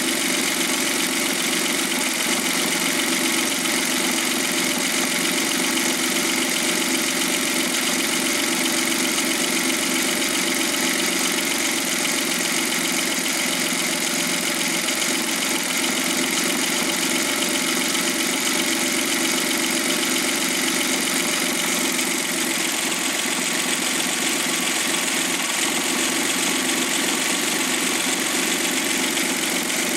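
Suzuki K6A 658 cc turbocharged three-cylinder engine idling steadily at an even, unchanging speed.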